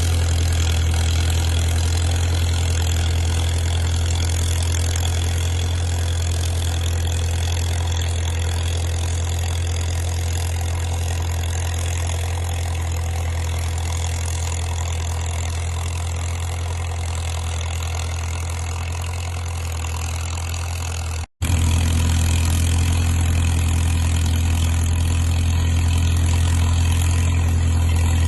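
Caterpillar crawler dozer's diesel engine running steadily under load while dragging a trail. The sound cuts out for an instant about three-quarters of the way through, then carries on.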